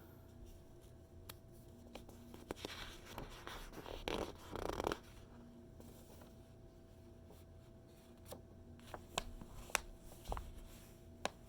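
Magazine pages being handled and turned: a papery rustle a few seconds in, then a handful of light ticks and taps from the paper near the end, over a faint steady hum.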